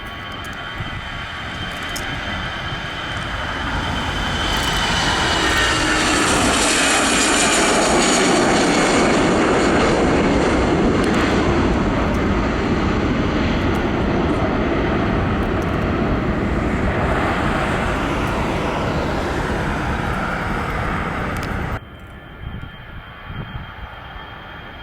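An airliner passing close by: engine noise swells, peaks with a high whine that falls in pitch as it goes past, then eases off. It cuts off suddenly near the end.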